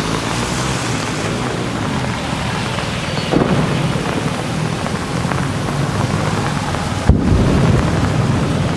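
Steady rain falling, with a low rumble underneath and a sudden thump about seven seconds in.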